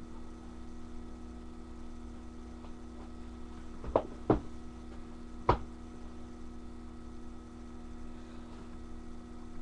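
A steady electrical hum, with three short, sharp knocks close together a little before the middle.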